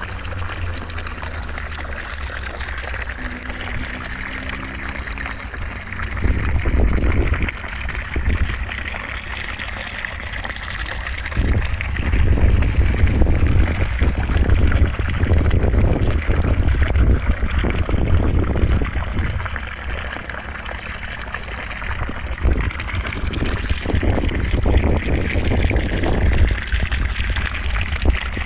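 Continuous rushing, water-like noise of a white-noise sleep track, with a deep rumble underneath that swells louder and eases off several times.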